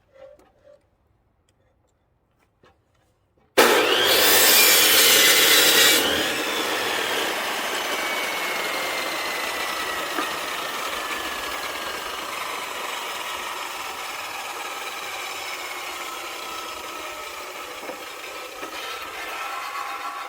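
A power saw cutting through a firewood log: after a few quiet seconds it starts suddenly, is loudest for the first couple of seconds, then cuts steadily while its motor tone slowly sinks under the load, stopping near the end.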